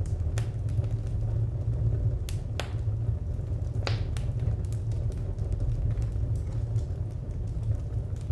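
Wood fire crackling: irregular sharp pops, the loudest a little over two and a half seconds and about four seconds in, over a steady low rumble.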